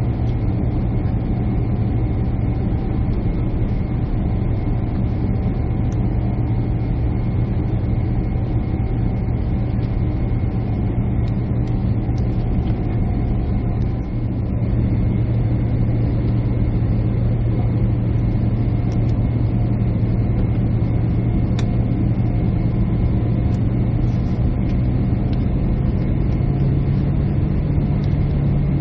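Steady engine and air noise inside a jet airliner's cabin, a strong low hum under a constant rush. It grows a little louder about halfway through, and the hum rises slightly in pitch near the end.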